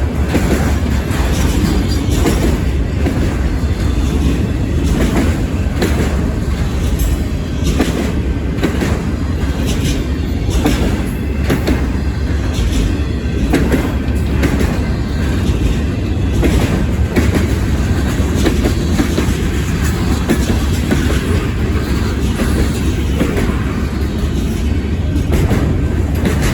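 CN manifest freight train rolling past: a steady, loud rumble of rail cars with frequent clicks of wheels over rail joints.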